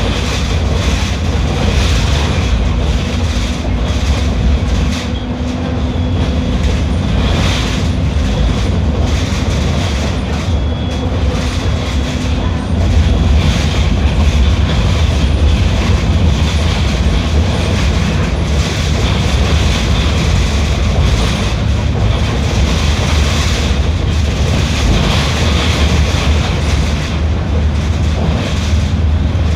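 Mercedes-Benz OF 1721L bus under way, its engine running with a steady low rumble and continuous rattling and clattering.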